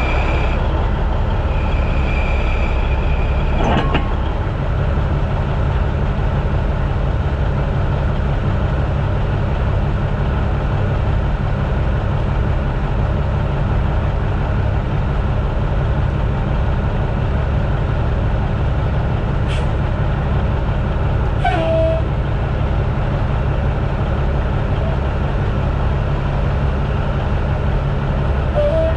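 Ford 6.0 Powerstroke V8 turbo-diesel truck engine running loud and steady, with a short higher-pitched sound about 22 seconds in.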